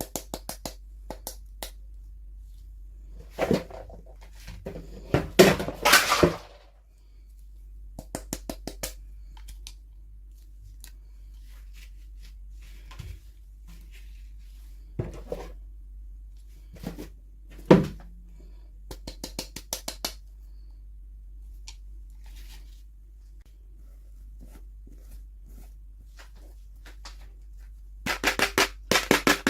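Toy packaging being handled and opened close to the microphone: bursts of crinkling, runs of quick clicks and taps, and a single louder knock near the middle.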